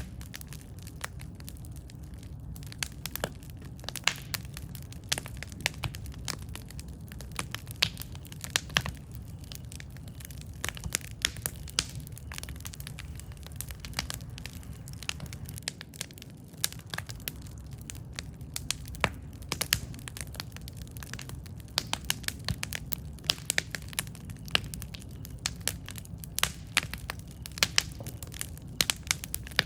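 Campfire burning, with frequent sharp, irregular crackles and pops from the burning wood over a steady low rumble of the flames.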